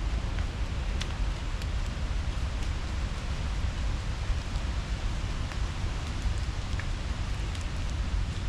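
Steady outdoor ambience: a low rumble under an even hiss, with a few faint ticks scattered through it.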